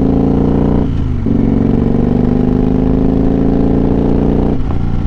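Motorcycle engine under way, rising steadily in pitch as it accelerates, with a sudden drop about a second in and again near the end, as at a gear change.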